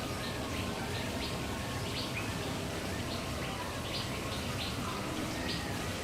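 Small birds chirping, many short high chirps a few times a second, over a steady low rumble.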